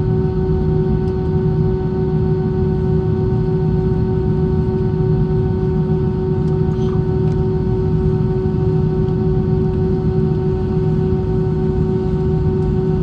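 Airbus A320 cabin noise in flight: a steady rush of air and engine rumble with one constant hum tone and several fainter higher tones above it.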